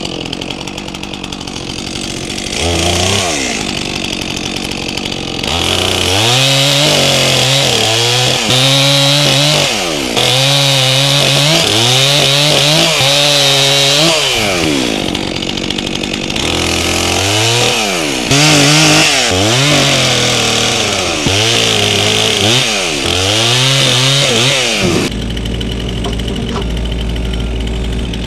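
Stihl MS400C two-stroke chainsaw, with a 28-inch bar, bucking a log into rounds. It idles, revs once briefly, then runs at full throttle through several cuts, its pitch sagging and recovering as the chain bites into the wood. It drops back to idle near the end.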